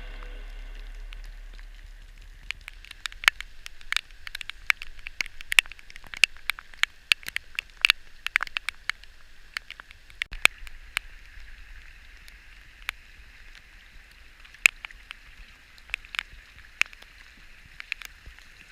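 Kayak on the water: irregular sharp drips and splashes, thickest in the first half, over a steady hiss of water.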